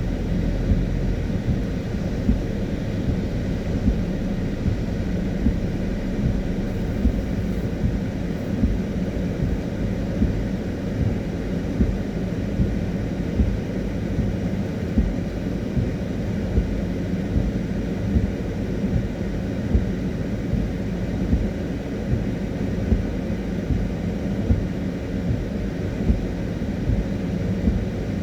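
Steady low rumble of a car driving, heard from inside the cabin: tyre and engine noise with small regular swells about once a second.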